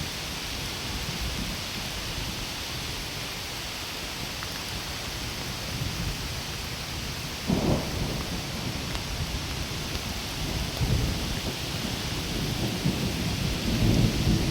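Heavy rain falling steadily on forest foliage, an even hiss. Deep rumbles swell up about halfway through and again near the end.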